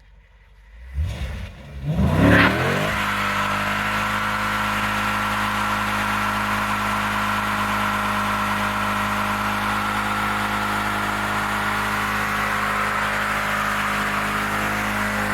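Dodge Challenger SRT8's 6.1 Hemi V8 revving up about a second in, then held at steady high revs.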